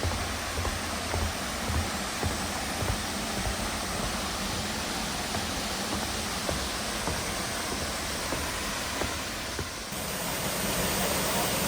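Steady rush of flowing water, with soft low thumps in the first few seconds. Near the end the rush jumps abruptly to a louder, brighter hiss.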